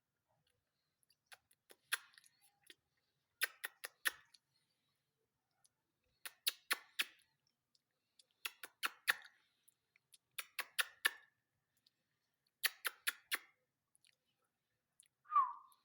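Ringneck parakeet making runs of three to five sharp clicks about every two seconds, then a short falling chirp near the end.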